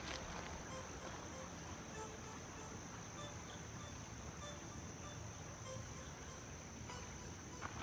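Faint outdoor ambience dominated by a steady, high-pitched insect drone, with a few short faint chirps.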